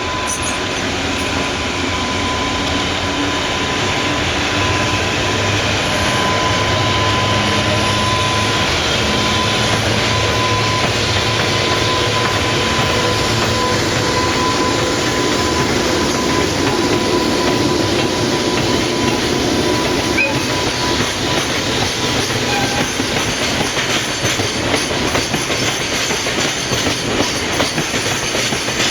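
Freight train rolling past, a loud, steady rush of wheels on rail, with a thin high tone over it for roughly the first half.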